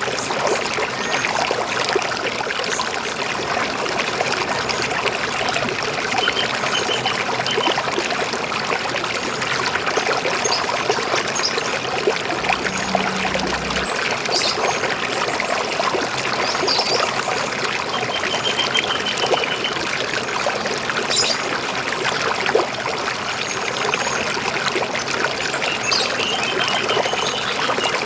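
River water flowing and splashing steadily over stones. Short, high bird chirps and trills break through a few times over the water.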